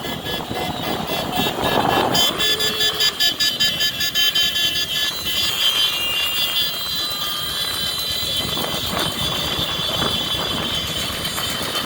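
Motorcycle and traffic noise on a busy avenue: engines running steadily under road noise, with a fast fluttering pulse for a few seconds starting about two seconds in.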